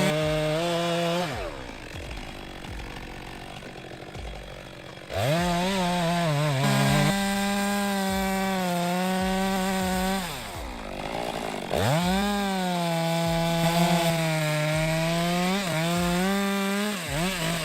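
Stihl MS462 two-stroke chainsaw revving up and cutting through thick logs. There are two long cuts of about five seconds each, the engine note climbing at the start of each and dropping away after, with quieter running between cuts.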